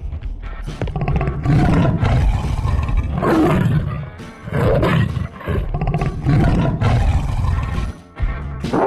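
A big cat roaring several times in a row, each roar about a second long, over background music.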